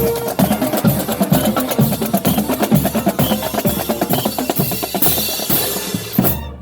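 High school marching band drumline playing a fast, dense cadence of snare and bass drums, stopping abruptly near the end.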